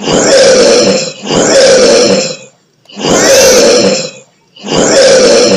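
Big-cat roars, a tiger's and then a lion's: four loud, rough calls of about a second each with short gaps between them.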